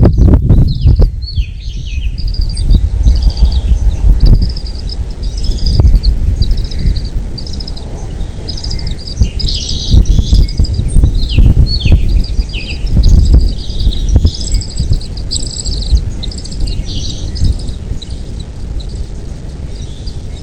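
Birds chirping and trilling in short, high, repeated calls over a heavy low rumble, with a few sharp knocks in the first second.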